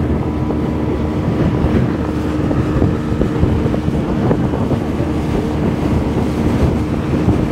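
Speedboat's outboard engine running steadily at speed, a constant drone under heavy wind buffeting the microphone and rushing water.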